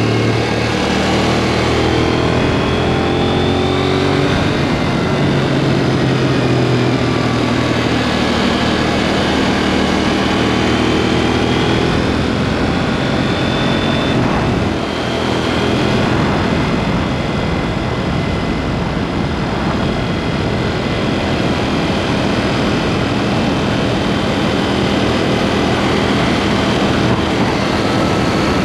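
KTM 790 Duke parallel-twin engine running under way through an aftermarket SpeedPro Cobra SPX exhaust, its pitch shifting with the throttle in the first few seconds. The level dips briefly about halfway through.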